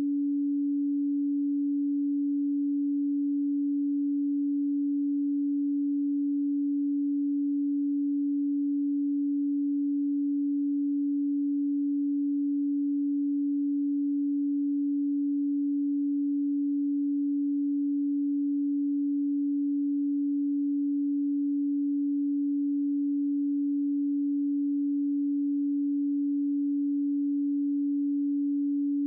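A pure 285 Hz sine tone, a single steady low hum held at a constant pitch and level.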